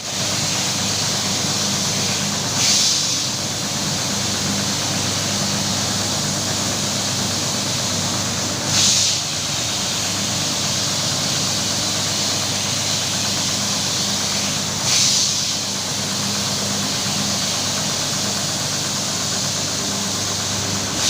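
Electric carpet-washing machine running: a steady motor hum with a hissing swish that comes round about every six seconds.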